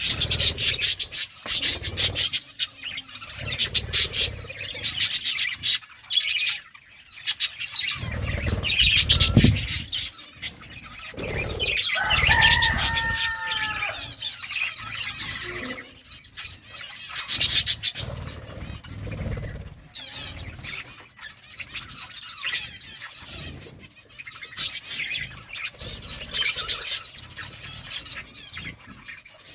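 Small cage birds chirping in quick, high bursts and fluttering their wings while feeding, with dull thumps of movement. About twelve seconds in, one bird gives a longer, bending squawk.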